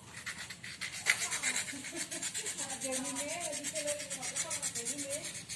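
Sandpaper rubbed rapidly back and forth over a metal motorcycle frame in quick, even rasping strokes, several a second, smoothing it down before painting.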